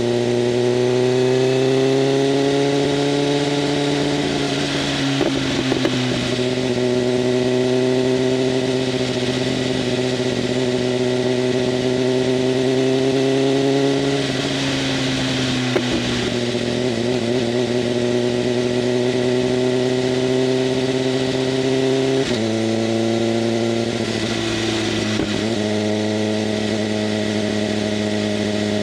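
BMW M1000RR's inline-four running through an SC-Project CRT exhaust with its flaps open, at steady moderate revs under way. The note rises over the first couple of seconds and then holds, breaks up briefly twice, and drops in one step about three-quarters of the way through.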